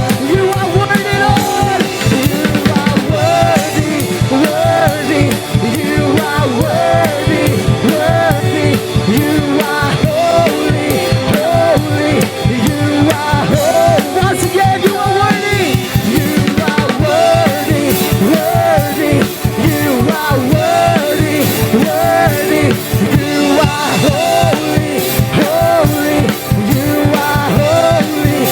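Live praise-and-worship band playing an upbeat song, led by a driving drum kit, with voices singing the melody.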